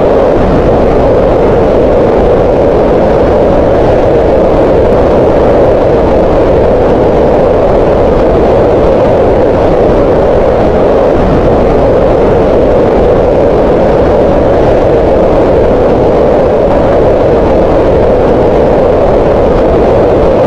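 Green noise: a steady, unbroken hiss centred around 500 Hz, a mid-range hum-like rush with the lows and highs rolled off.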